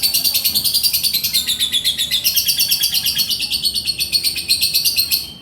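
Male lovebird singing a long, rapid chattering trill of high notes, about ten a second, that breaks off shortly before the end.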